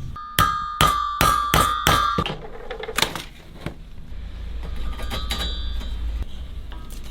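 Hammer striking metal: about six quick blows with a ringing note, then two more, more widely spaced blows.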